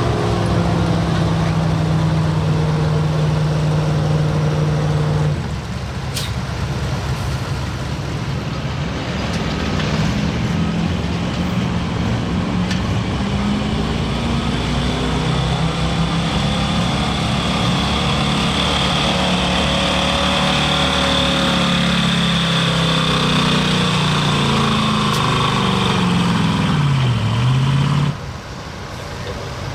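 Stock pickup truck engines running hard under load. The pitch holds steady at first, then rises and falls as the throttle changes, dips, and the engine note cuts off sharply near the end.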